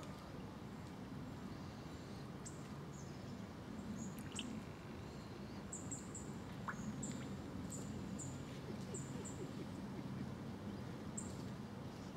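A small bird chirping: a scattered string of short, very high chirps, some in quick pairs or triplets, over a steady low background rumble.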